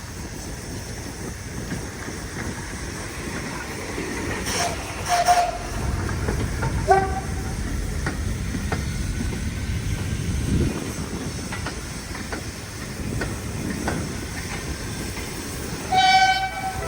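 A train running on a heritage railway line: a steady rumble with hissing and wheel-on-rail clatter. There are a few sharp clanks around five and seven seconds in, and a short high-pitched tone near the end.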